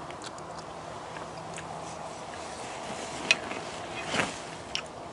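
A person chewing a mouthful of food quietly over a steady low room hum, then a few light clicks and a short scrape of a knife and fork on a plate from about three seconds in.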